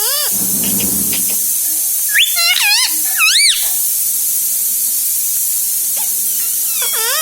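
Indian ringneck parrot giving short chirping calls that arch up and down in pitch: one right at the start, a quick run of them about two to three and a half seconds in, and another near the end. A steady high hiss runs underneath.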